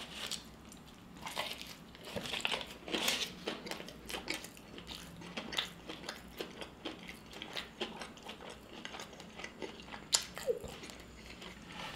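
A person chewing food close to the microphone, with irregular soft crunches.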